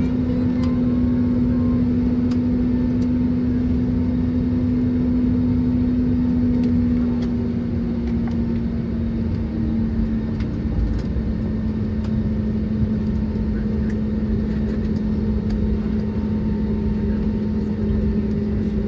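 Airbus A320neo cabin noise on the ground: a steady engine hum over a low rumble, its pitch and level dropping slightly about seven seconds in.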